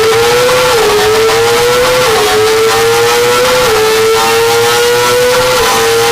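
Kawasaki Ninja small-displacement inline-four sportbike engine screaming at very high revs under hard acceleration. Its pitch climbs slowly and dips briefly at each of about four quick upshifts.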